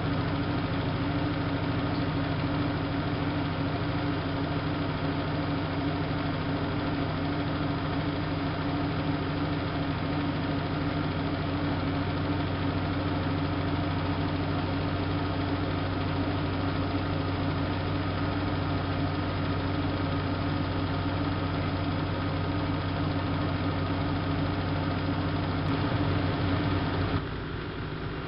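Siemens Siwamat IQ washing machine spinning at a steady speed, a steady motor hum with several fixed low tones. Near the end the sound drops suddenly as the motor changes over.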